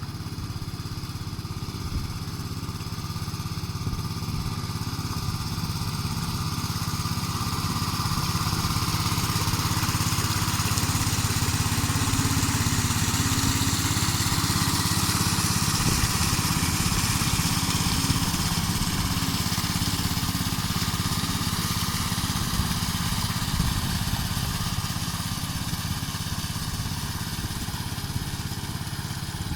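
Small 6.5-horsepower engine driving a 3-inch water pump on a boat, running steadily at speed. It grows louder toward the middle and eases off again near the end.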